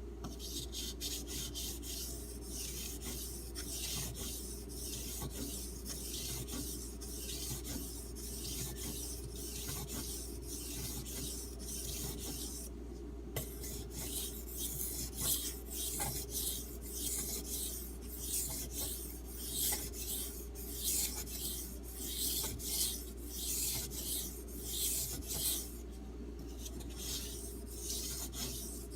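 A D2 steel knife blade stroked back and forth on an Arkansas water stone, making a rhythmic scraping hiss. The strokes become more distinct and regular in the second half, over a steady low hum.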